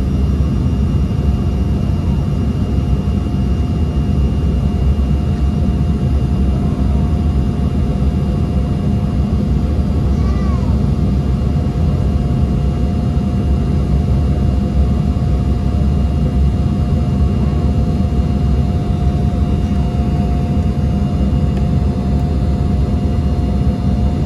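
Embraer 170 jet airliner's engines running steadily: a loud, even rumble with a constant high whine above it.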